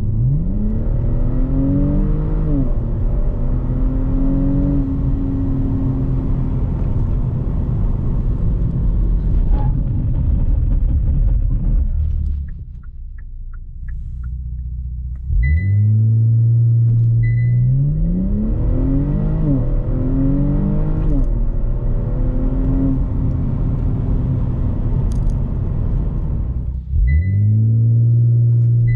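Kia Stinger GT's twin-turbo 3.3-litre V6 accelerating hard, its note climbing and dropping back in steps as the automatic shifts up through the gears. The pull eases off about 12 seconds in, then a fresh launch starts about 15 seconds in, and another near the end.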